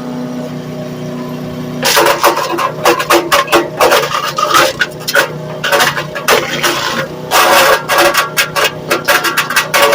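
Small engine-driven wood chipper running steadily, then chewing wood from about two seconds in: a rapid, irregular series of loud cracks and knocks as branches are chipped.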